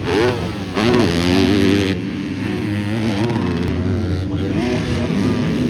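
250 class motocross bike engines revving hard and backing off, their pitch sweeping up and down again and again as the bikes ride the track.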